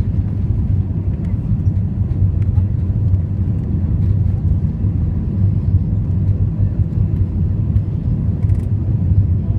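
Steady low rumble of cabin noise aboard an Airbus A320 airliner, from the engines and airflow, with a faint steady whine above it.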